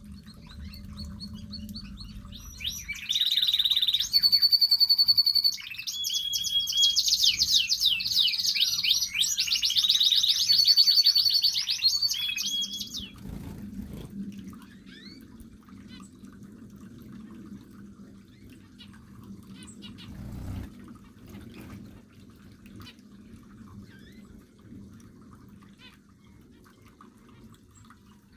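A canary singing a long, loud song of rapid trills and held whistled notes for about ten seconds, then stopping. Softer scattered chirps from other aviary birds follow over a low steady hum.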